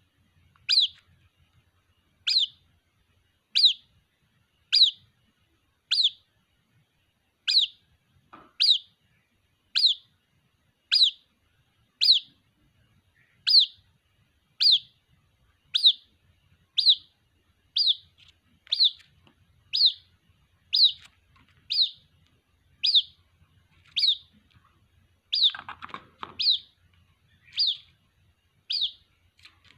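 White-breasted waterhen chick calling for its mother: a steady series of short, high, downward-sliding peeps, about one a second.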